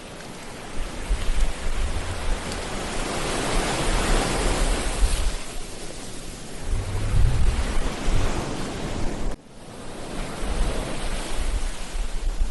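Ocean surf: waves breaking and washing onto the beach, one swelling and breaking about four to five seconds in, with wind buffeting the microphone in low rumbling gusts. The sound drops out abruptly for an instant about nine seconds in.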